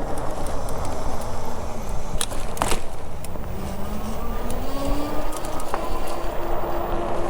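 Steady rumble from riding a bicycle, with a motor vehicle's engine rising in pitch about four to five seconds in and then holding steady. Two sharp clicks come between two and three seconds in.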